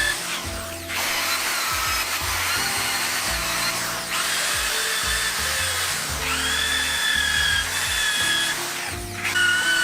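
Electric drill running a steel wire brush against a motorcycle frame to strip off paint and rust, its whine rising and falling in pitch as the load changes. Background music plays along.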